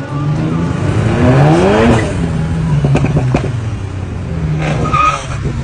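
Volkswagen Golf Mk7 GTI's turbocharged four-cylinder engine revving: the pitch climbs for about a second and a half, then drops back and holds steady, with a few sharp cracks about three seconds in.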